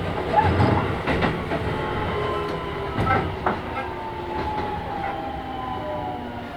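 Keisei 3000-series electric train heard from inside the car: wheels clicking over rail joints, then from about four seconds in a whine from the Toyo IGBT inverter and traction motors that falls slowly in pitch as the train slows.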